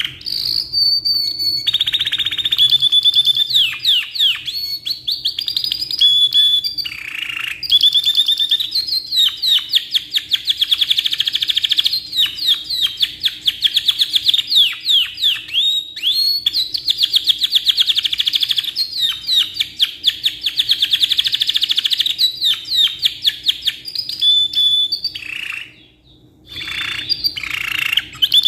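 Canary singing a long rolling song: fast trills of quick down-sweeping notes, run together with only short breaks and one brief pause near the end.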